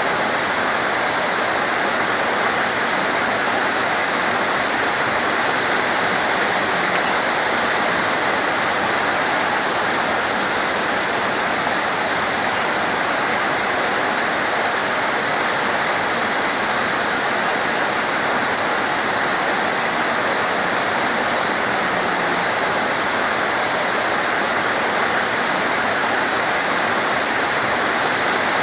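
Torrential rain pouring down in a steady, even hiss that neither rises nor falls, with one small click about two-thirds of the way through.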